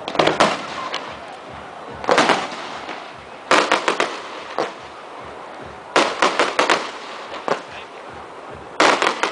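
Festival fireworks and firecrackers going off: sharp bangs in clusters of several quick reports, a new burst every second or two.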